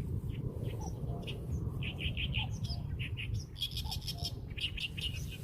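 Small birds chirping: short high notes and quick runs of repeated chirps, over a steady low rumble.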